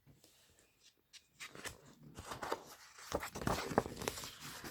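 Rustling and soft clicks of paper being handled, as of a picture book's page being turned; it starts after a short hush and grows busier about three seconds in.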